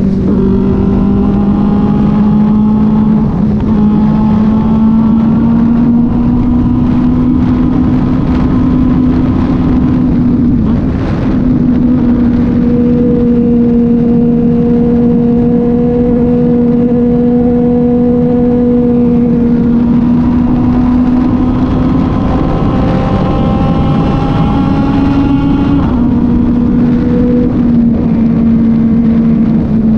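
Kove 450RR motorcycle's single-cylinder engine running at a mostly steady cruising speed, over a constant rushing noise. The engine note shifts slightly in pitch a few times, with a short dip about eleven seconds in and a brief rise about three quarters of the way through.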